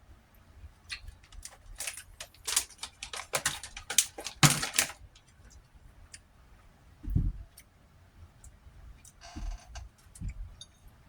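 Close-up eating sounds: a quick run of sharp clicks and crunches from utensil and chewing for a few seconds, then a short low sound about seven seconds in and a brief hiss a couple of seconds later.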